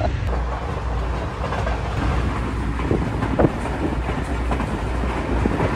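Steady low rumble of a passenger train, with a couple of faint knocks about three seconds in.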